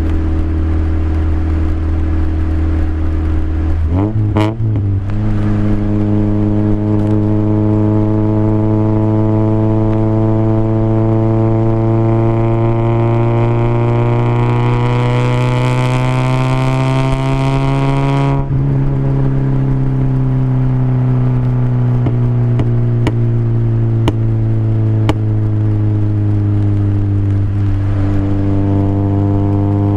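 Toyota Corolla's 1.8 L 7A-FE four-cylinder running through headers and a Magnaflow exhaust, with no muffling. About four seconds in the note steps up with a few clicks. It then climbs slowly for some twelve seconds, drops away suddenly, and sinks gradually to a steady note near the end.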